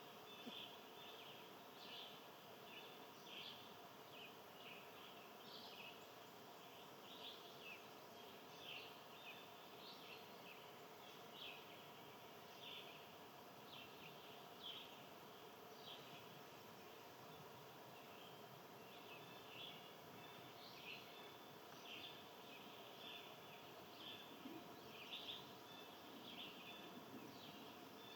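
Faint outdoor chirping of small birds: short calls repeated roughly once a second, over a steady low background hum.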